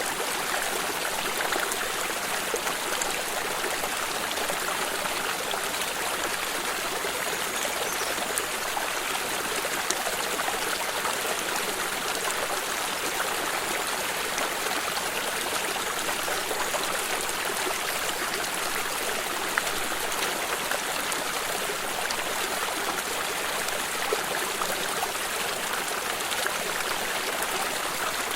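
Water stream running steadily, a continuous rushing with small splashes and trickles over it.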